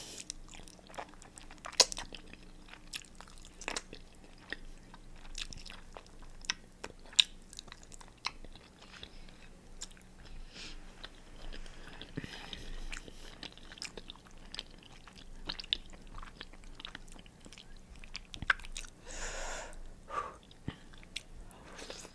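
A person eating a pig's-foot boil close to the microphone: chewing and biting, with many short sharp mouth clicks and a longer, louder sound near the end.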